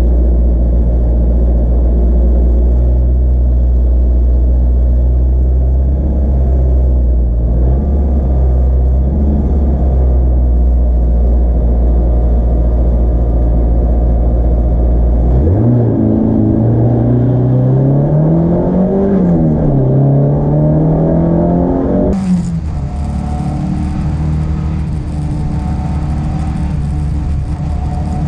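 Peugeot 205 GTi's four-cylinder engine heard from inside the cabin, running steadily and then revving hard as the car sets off about halfway through. The pitch climbs, drops at a gear change and climbs again. Near the end the sound switches abruptly to the engine pulling steadily up the hill.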